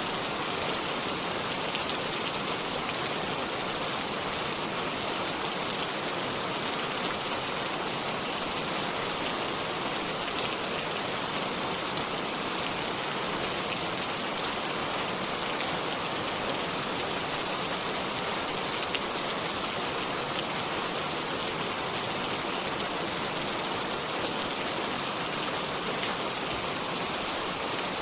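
Steady rainfall, a dense even hiss of drops pattering on leaves and surfaces with scattered individual drop ticks.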